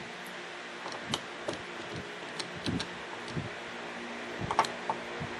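Scattered light clicks and taps of a screwdriver turning small screws into the aluminium body of a Mikuni fuel pump. They come irregularly, about eight in five seconds, over a steady faint hum.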